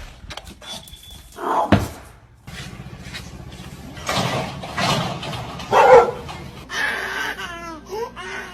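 A dog barking in short separate bursts, then whining with short calls that rise and fall in pitch near the end.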